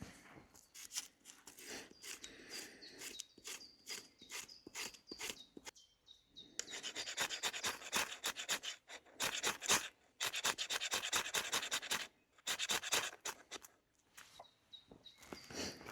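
Repeated rasping, scraping strokes in several bursts, densest in the second half, with faint bird chirps.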